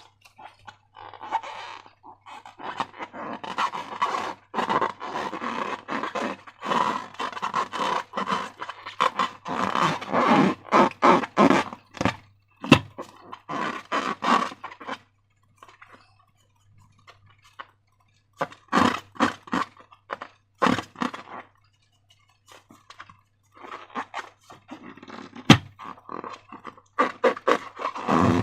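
Slime being squished and worked with rubber balloons: irregular sticky squelches and crackles in bursts, with two short pauses, over a faint steady low hum.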